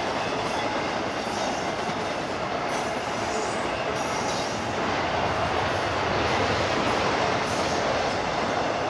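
BNSF freight train rolling past, a steady, even noise of steel wheels on rail.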